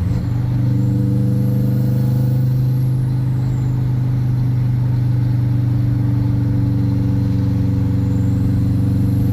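2-litre Subaru WRX flat-four engine in the drift car running under way; its note dips briefly right at the start, then holds one steady, even pitch.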